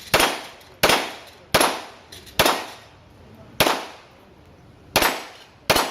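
Handgun fired in a quick string at steel plates: seven sharp shots, the first four about three-quarters of a second apart, then a longer gap before the last shots, each with a short echoing decay.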